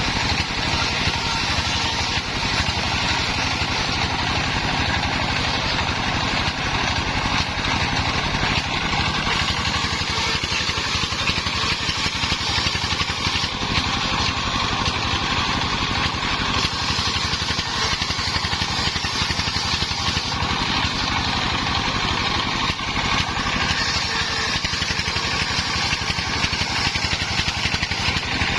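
Engine-driven homemade circular saw rig running steadily while cutting wood into battens. The higher cutting noise swells and eases several times over the engine's constant running.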